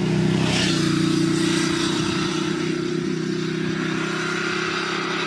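Voge DS 900 X motorcycle's parallel-twin engine running at steady revs as the bike rides through a bend toward the microphone, swelling in at the start and then holding an even pitch.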